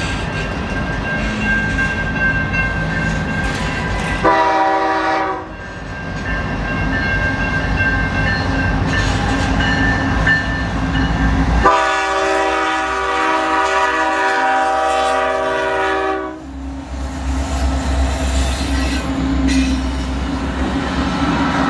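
Train with diesel locomotive running, its multi-chime air horn sounding a short blast about four seconds in and a long blast of about four and a half seconds from about twelve seconds in, over steady rumble and rail clatter.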